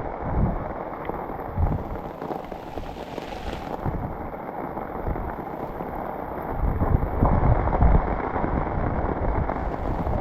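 Heavy rainstorm: a steady rush of rain and wind, with low rumbling surges that are strongest about seven to eight seconds in.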